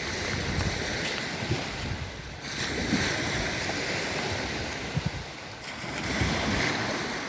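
Small sea waves washing onto the shore, swelling and easing, with wind buffeting the microphone in low thumps.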